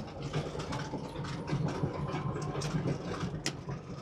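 Caterpillar D6R dozer's C9 diesel engine running steadily, with many light clanks and rattles over it as the machine travels.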